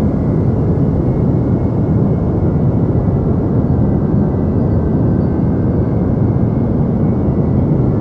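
Deep white noise: a steady, unchanging hiss heaviest in the low end, with no rhythm or breaks.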